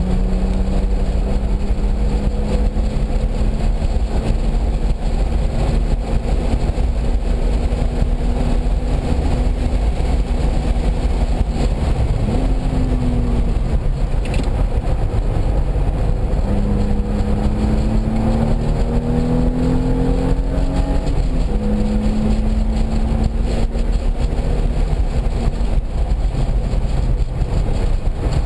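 Car engine under load on a race track, its pitch climbing slowly through each gear and dropping sharply at shifts about 12 and 21 seconds in, under a heavy constant rumble of wind and road noise.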